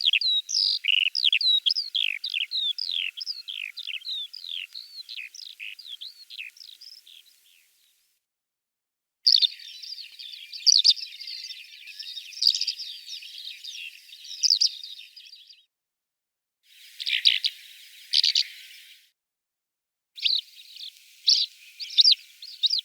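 Eurasian skylark singing: a fast run of short, falling whistled notes that fades away over about seven seconds, then, after a break, dense rapid warbling in several bursts separated by silent gaps.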